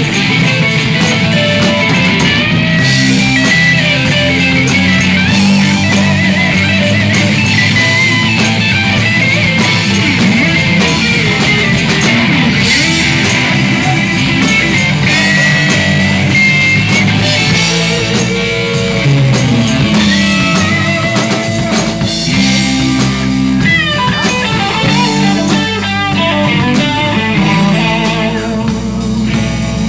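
Live rock band jamming: electric guitar playing lead over bass and a drum kit.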